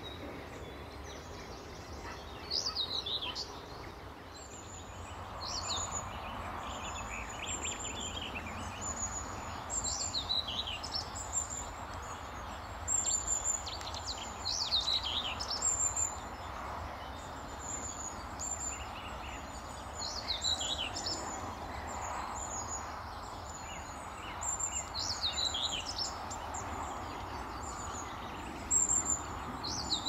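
Wild birds singing: short falling whistled phrases repeat every few seconds over a string of quick high chirps, with a steady outdoor hiss behind them.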